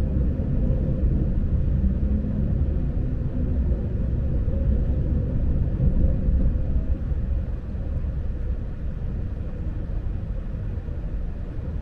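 Lastochka electric train heard from inside the carriage: a steady low running rumble of wheels and motors, with a faint steady hum over it.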